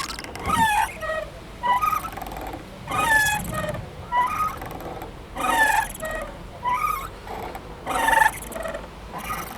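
Playground swing squeaking as it swings back and forth, with a loud squeak about every two and a half seconds and a softer one between each pair.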